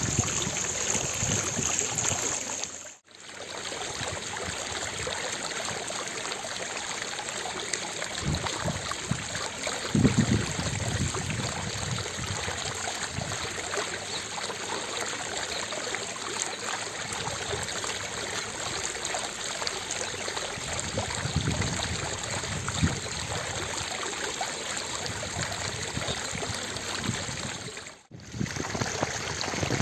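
Fountain water splashing steadily into its basin, a continuous rushing patter. It cuts out for a moment about three seconds in and again near the end.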